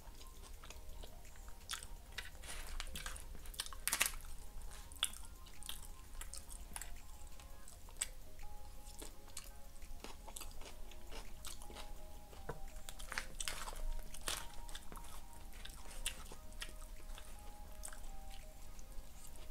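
Close-miked chewing of a burrito bowl of rice and lettuce, with many short wet mouth clicks and crunches. Faint background music plays underneath.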